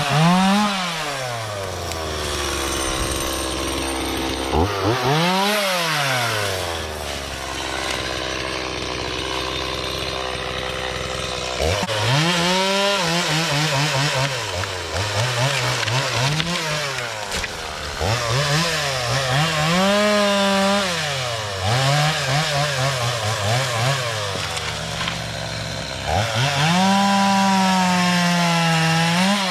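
Two-stroke Stihl chainsaw cutting brush, throttled up to a high whine and let back to idle again and again. A long stretch near the middle is mostly idling, and near the end it is held at full throttle for a few seconds.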